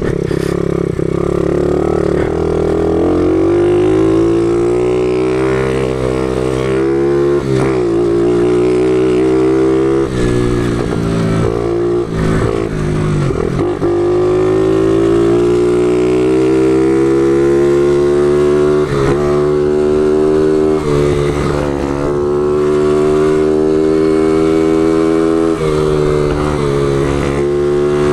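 Small 50cc motorcycle engine being ridden. The revs climb and fall repeatedly, with brief drops where the throttle is closed or a gear is changed, around eight seconds in, twice between ten and fourteen seconds, and again near the end.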